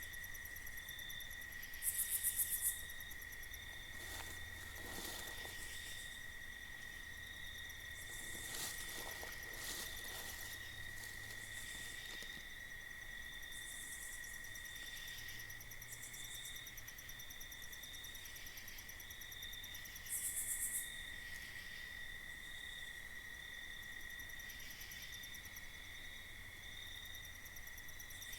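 Night insects, crickets among them, calling steadily: a continuous high trill with a faster pulsing chirp above it. A louder, very high buzzy call cuts in briefly twice, about two seconds in and again near twenty seconds.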